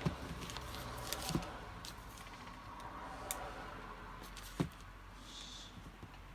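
Scattered light clicks and taps of a hot glue gun being worked over a cracked plastic box, with a brief soft hiss a little after five seconds in.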